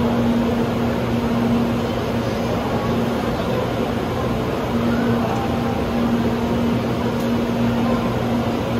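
Steady hum of a Type 923 "Doctor Yellow" Shinkansen inspection train standing at the platform: its electrical equipment and cooling fans running. A low steady tone in the hum drops out for a second or two midway.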